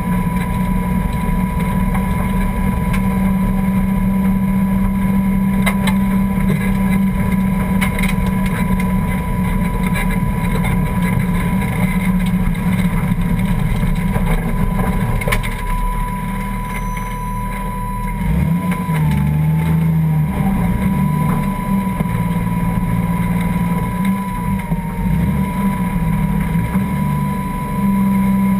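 Toyota 1JZ straight-six in a Ford Escort race car idling loud and steady as the car creeps along. Its note shifts and wavers briefly about two-thirds of the way through, then settles back to idle.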